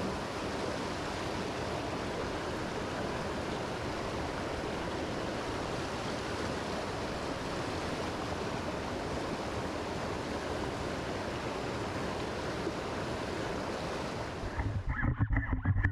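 Mountain stream water rushing, a steady even hiss. About a second before the end it cuts off abruptly and music begins.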